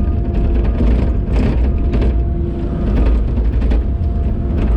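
Excavator's diesel engine running steadily under load, with a steady hydraulic whine and scattered knocks as the machine works wet modified stone.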